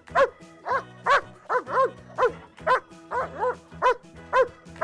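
Dog barking over and over, about two short barks a second, over background music.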